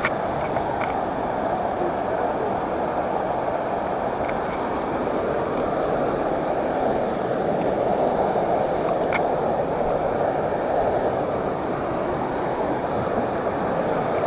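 Waterfall rushing steadily, with a few faint ticks now and then.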